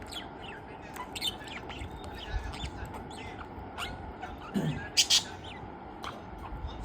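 Pet budgerigar giving short, scattered chirps and squawks, the loudest two close together about five seconds in, over a faint steady low hum.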